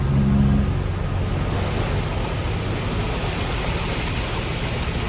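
Heavy earthmoving machinery at work: a low diesel engine drone under a steady rushing noise that grows stronger about two seconds in.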